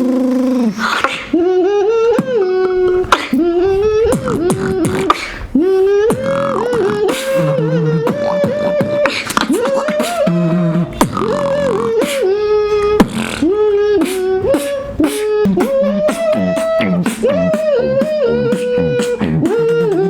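Beatboxing: a hummed melody that glides and jumps in pitch, over fast, sharp mouth-made snare and click beats.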